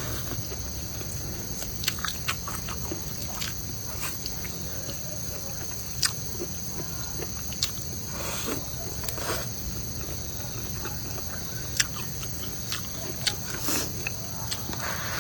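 Steady high-pitched insect chirring, with scattered sharp clicks and a few short crunchy bursts over it.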